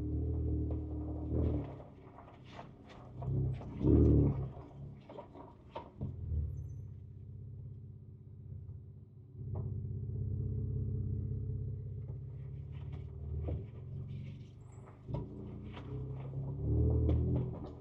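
Ford Ranger Raptor's twin-turbo 3.0-litre V6 engine running at low trail speed, heard from inside the cab, swelling and easing off with the throttle. Short knocks and rattles from the truck working over rough ground.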